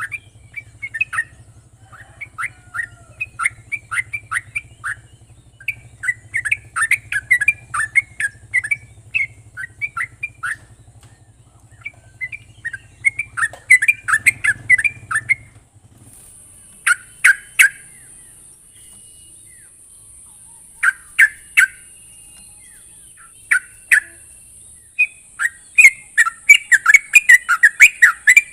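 Yellow-vented bulbul (trucuk) calling: fast, bubbly phrases of short chattering notes. The phrases thin to a few sharp calls in the middle and quicken into a rapid run near the end.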